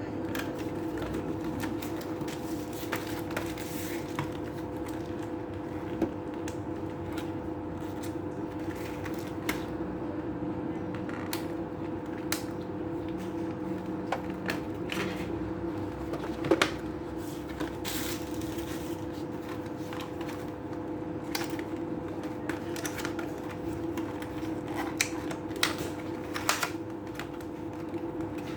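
A motorcycle helmet lock and its chain being handled: scattered clicks, light knocks and scrapes throughout, one louder click about halfway through, over a steady hum.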